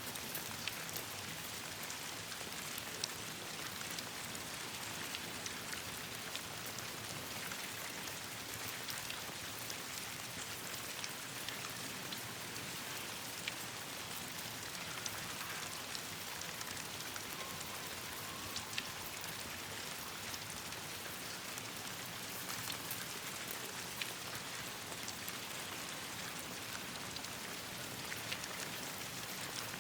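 Steady rain falling on leaves, with scattered sharp pops and ticks from a crackling campfire.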